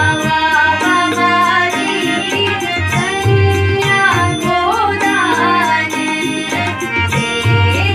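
A voice singing a melodious folk-style song over instrumental accompaniment, with held tones and repeated low drum beats.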